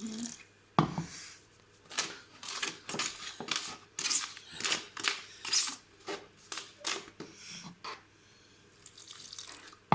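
A sharp knock, then a run of short, repeated scraping strokes of a hand tool against a container, a few strokes a second, as water is worked into the tile adhesive mix.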